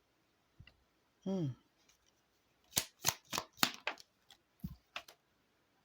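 Lenormand cards being handled and drawn from the deck: a run of about eight sharp clicks over some two seconds, with a brief hum of voice about a second in.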